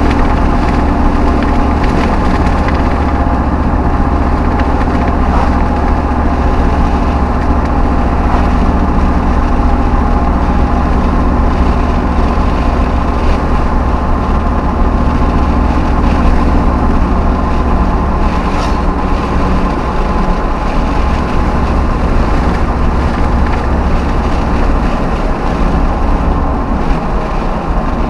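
V8 Hemi pickup truck driving: steady engine and road rumble.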